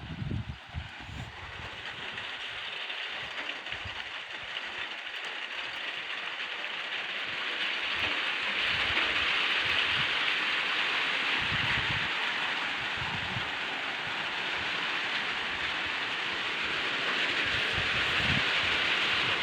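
Rain falling on a garden, a steady hiss that slowly grows louder, with scattered low thumps.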